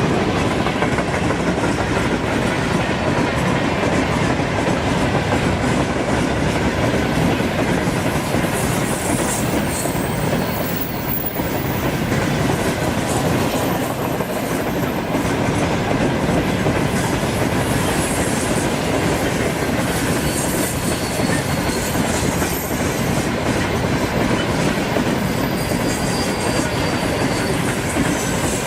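Freight train wagons rolling past, a steady loud rumble of wheels on rails, with a few faint brief high wheel squeals in the latter part.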